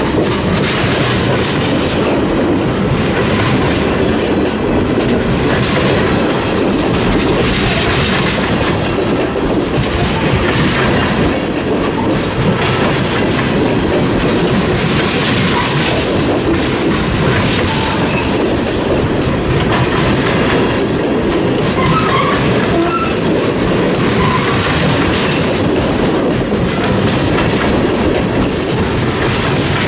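Freight cars rolling past at close range, their wheels clacking steadily over rail joints.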